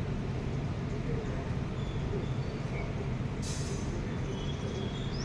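Steady low background rumble with a few faint, high bird chirps over it, one rising chirp near the end, and a brief high hiss about three and a half seconds in.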